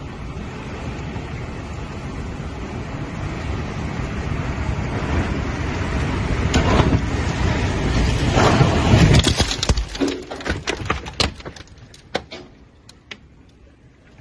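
Tornado wind noise building steadily to a peak about nine seconds in. Then comes a quick run of sharp knocks and cracks as debris strikes the house, dying away near the end.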